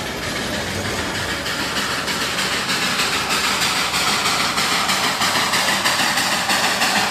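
Darjeeling Himalayan Railway toy train running, a steady rumble with a fast, regular beat that gets a little louder toward the end.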